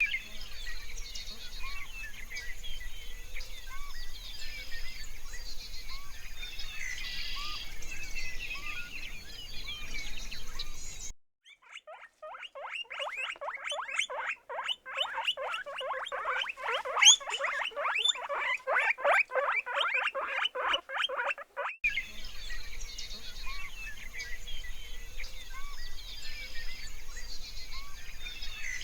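Outdoor ambience with small birds and insects chirping, broken for about ten seconds in the middle by an animal's rapid, high-pitched chattering call of many quick repeated notes.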